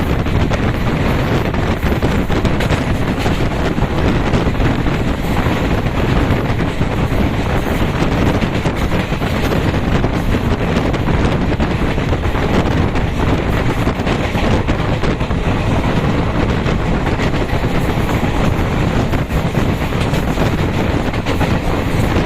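Moving passenger train, heard from on board: a loud, steady rumble of the wheels on the track mixed with wind noise on the microphone.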